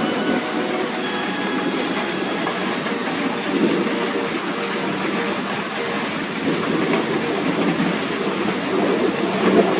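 Heavy rain pouring in a thunderstorm: a dense, steady rushing noise.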